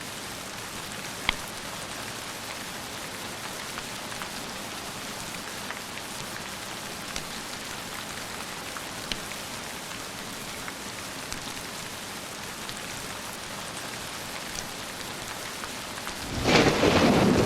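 Steady rain with a few scattered sharp pops. About a second before the end a loud thunderclap breaks in and rolls on.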